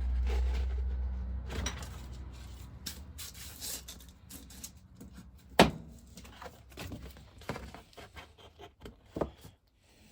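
Workbench handling sounds as cardboard gasket stock and pump parts are moved about: a low rumble over the first two seconds, then scattered taps and knocks, with one sharp knock just past halfway.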